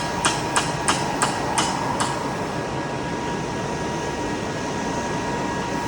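Steady machine hum with a thin, even whine, and a quick run of about seven sharp taps, roughly three a second, over the first two seconds.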